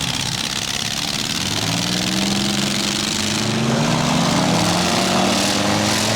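Small demolition-derby car engines running. One revs up, its pitch climbing from about a second and a half in and then holding high.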